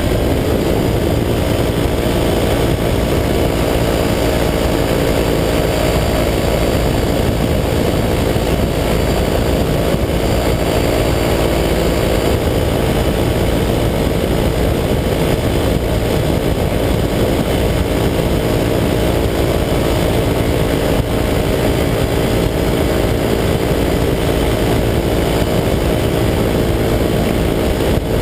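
185 cc EcXtreme two-stroke paramotor engine running steadily in flight, a constant drone at an even throttle setting.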